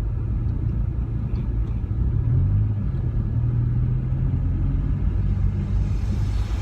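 Low, steady engine and cabin rumble inside a Rover 45 sitting in stopped traffic, with a hum that swells a little in the middle.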